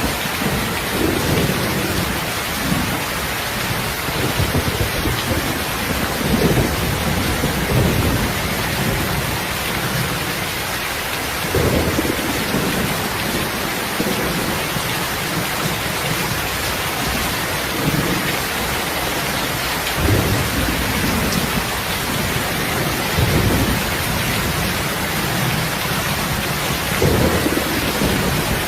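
Steady rain hissing, with short low rumbles at irregular moments every few seconds.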